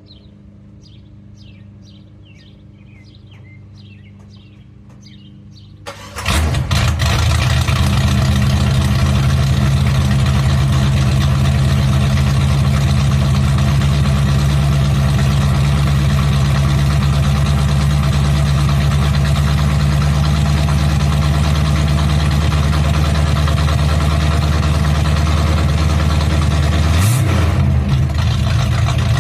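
Mild-cammed Chevrolet 305 small-block V8 starting up about six seconds in and then idling loud and steady through open glasspack exhaust with dumps, with one brief rev a couple of seconds before the end. Before it fires there is only a faint low hum.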